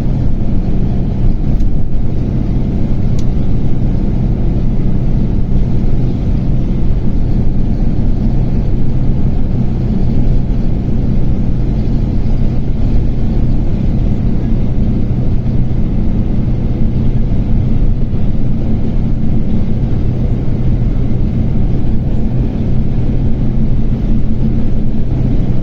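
A steady, loud low engine drone with a constant hum, unchanging throughout.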